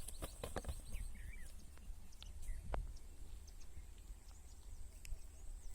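Faint outdoor ambience: a few short, scattered bird chirps and light clicks over a low steady rumble.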